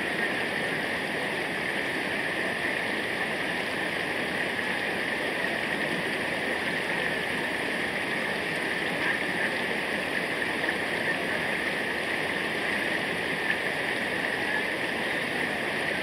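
Flowing water of a stream rushing steadily.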